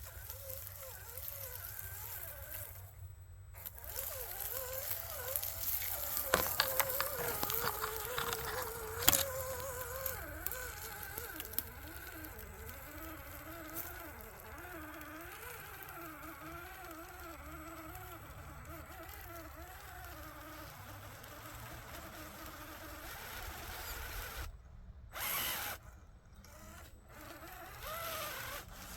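Small electric motor and geared drivetrain of an RC rock crawler whining, the pitch wavering up and down as the throttle changes. A few sharp clicks and knocks come between about six and nine seconds in.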